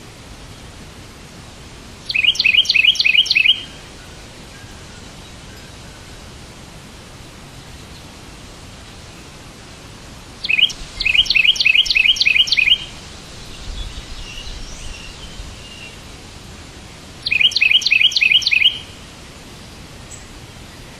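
A songbird singing three short phrases of quickly repeated high chirps, each lasting a second or two, about two, ten and seventeen seconds in, with a fainter call between the second and third, over a steady background hiss.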